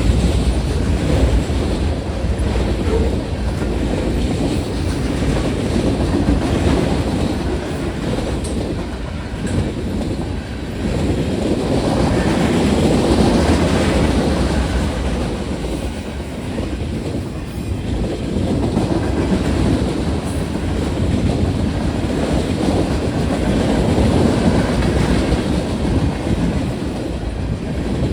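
Freight train rolling past at speed, its wheels clattering over the rails in a steady rumble that swells and eases every few seconds.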